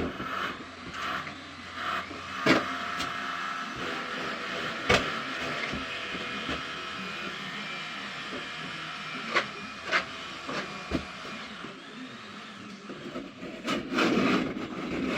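A steady mechanical hum like a running motor, with a handful of sharp knocks and clicks over it, the loudest a cluster near the end.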